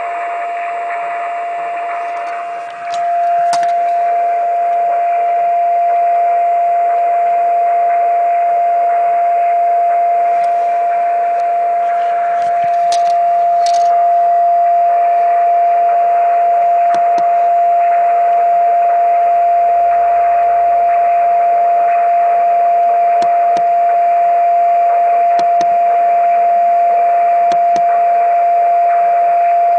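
Radio receiver's speaker sounding a steady single beat tone over band-limited receiver hiss: the home-built Si5351A signal generator's unmodulated test carrier being received. The tone gets louder and cleaner about three seconds in.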